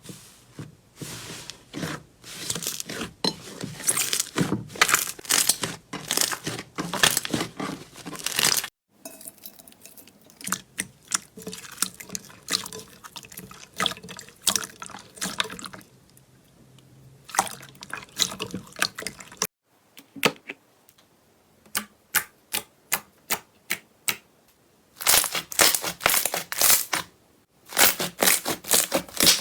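Slime being squeezed, stretched and poked by hand: wet clicking, popping and crackling in quick runs. The texture changes abruptly twice as one slime gives way to another, and in the later part there is a stretch of spaced single pops at about two a second.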